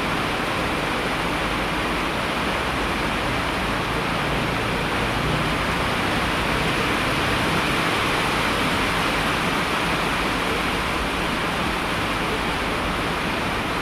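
Steady rain: an even, unbroken rushing hiss with no separate drops or other sounds standing out.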